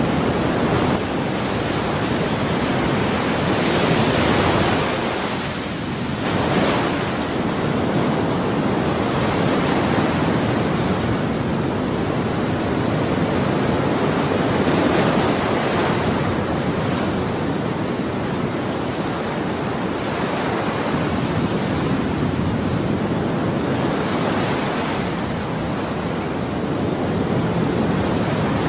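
Ocean waves breaking and washing ashore in a continuous surf hiss, swelling with a brighter rush every several seconds.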